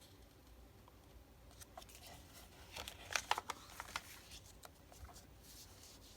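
Paper craft pieces being handled on a work table: a cluster of light clicks and rustles, loudest about three seconds in.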